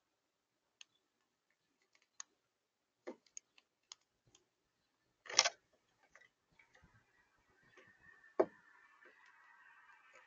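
Birds pecking and tapping at a bird feeder: scattered sharp clicks and taps, with two louder knocks about five and eight seconds in. From about six and a half seconds a faint steady background hum with a held tone sets in.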